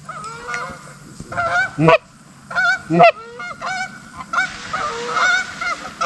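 Goose honks and clucks: scattered honks at first, two loud honks around two and three seconds in, then a thick overlapping chatter of many honks from about four seconds on.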